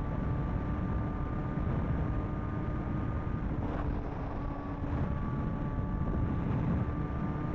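Sport motorcycle engine running at a steady speed, with wind noise on the microphone. The engine note breaks off for about a second and a half in the middle, then comes back.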